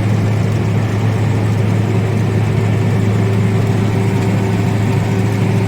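ZIL-130 truck's V8 petrol engine running at a steady cruise under load, a constant low drone with no change in pitch.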